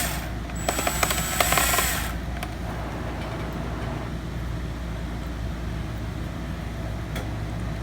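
A small electric screwdriver runs briefly about a second in, a burst of about a second and a half with clicks and a thin high whine, driving a screw back into a laptop's bottom case. After that only a steady low hum remains.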